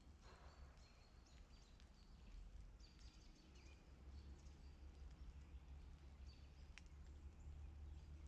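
Near silence: faint outdoor ambience with small birds giving short, high chirps now and then over a steady low rumble.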